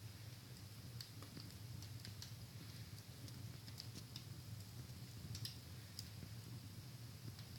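Wood fire crackling in a fireplace: faint, irregular small pops and snaps from the burning logs, with a low steady hum underneath.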